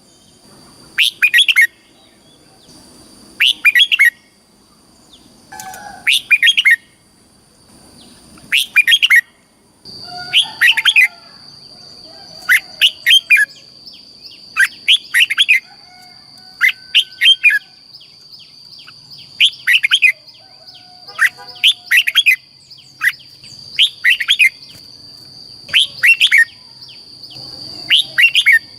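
Red-whiskered bulbul singing: a short, loud phrase of quick warbled notes repeated about every two seconds. A faint steady high tone hums behind it from about ten seconds in.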